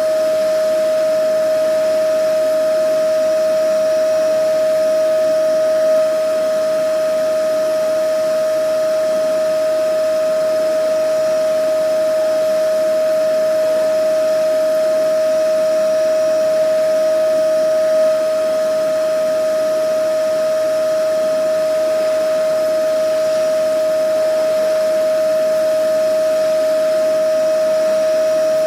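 Vacuum cleaner motor running steadily, a constant high whine over a rushing hiss of air, with a slight swell twice.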